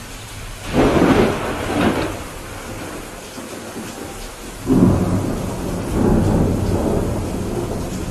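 Thunderstorm: steady rain with thunder, a sudden clap about a second in and a second peal near the five-second mark that rolls on as a long rumble.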